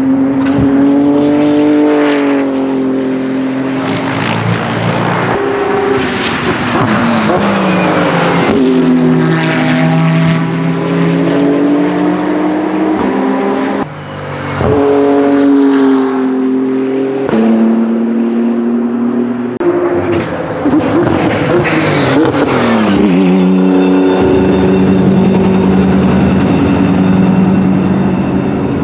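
BMW M4 GT3's twin-turbo straight-six running loud at racing speed, its pitch climbing and dropping again and again with sudden steps at the gearshifts. The sound briefly drops out about 14 seconds in.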